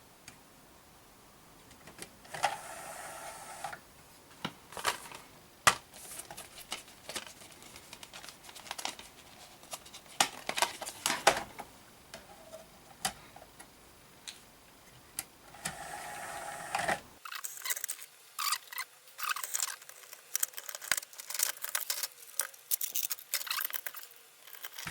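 Clicks, taps and light rattles of hands handling the internals and cable connectors of an opened Blu-ray player while checking for an unplugged connection. Twice a steadier noise lasts about a second, once near the start and once after about 16 seconds.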